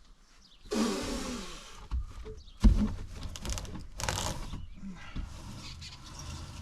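Rough scraping with a creaking groan, then a sharp knock and another scrape, as panels and gear are handled in an old fibreglass boat.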